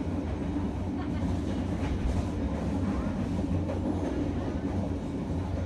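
Train running, heard from on board: a steady low rumble with a hum and a few faint ticks from the wheels on the rails.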